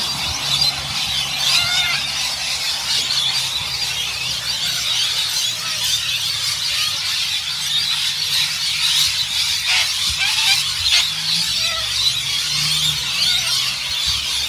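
A large flock of birds roosting in trees, screeching and chattering constantly, many calls overlapping into a dense high-pitched din.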